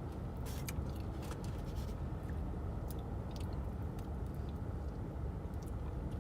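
Close-up chewing and mouth smacking on a fried peri-peri chicken wing: scattered short wet clicks over a steady low hum.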